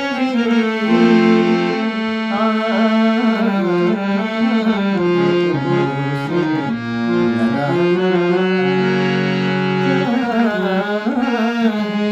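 Indian song: a voice sings held notes with wavering, sliding ornaments over steady sustained instrumental accompaniment.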